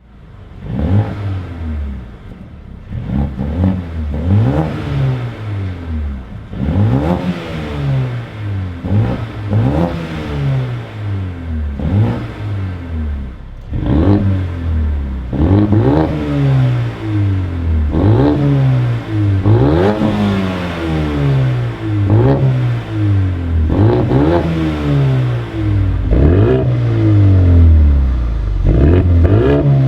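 Mercedes-AMG A 35's turbocharged 2.0-litre four-cylinder engine, breathing through a 3-inch stainless steel exhaust with the petrol particulate filter removed, revved repeatedly while stationary: quick blips that rise and fall back about every second or two, with longer, higher revs near the end.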